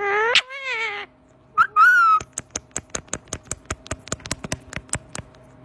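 Parrot giving two short meow-like calls, then a rapid run of sharp clicks, about ten a second for some three seconds.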